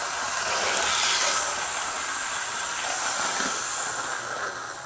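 Athearn HO-scale model diesel locomotive with a flywheel drive, running fast along the track: a steady whirring hiss of motor, gears and wheels with a thin high whine. It eases off gradually toward the end as the locomotive starts to coast down.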